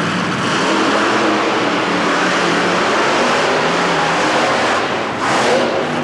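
Monster truck engines running loud and hard, with a brief rev rising about five seconds in.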